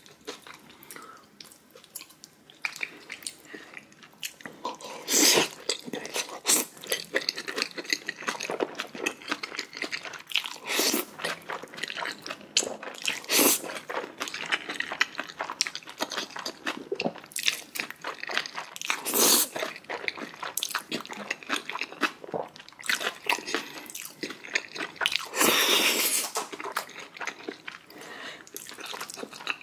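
Close-miked eating: irregular chewing and biting with wet mouth smacks and crunches, and a few louder bursts scattered through.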